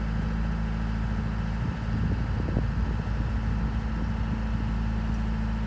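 Sailboat's inboard auxiliary engine running steadily while motorsailing with the sails up, an even low hum.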